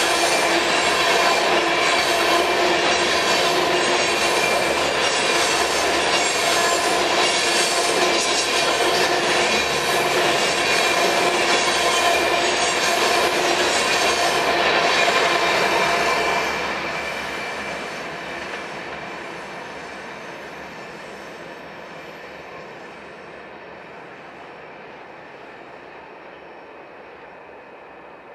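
Covered hopper grain cars rolling past close by, steel wheels on rail giving a steady noise with high ringing squeal tones and a regular click about once every 0.8 seconds. About 16 seconds in, the last cars pass and the sound drops off, then fades steadily as the train draws away.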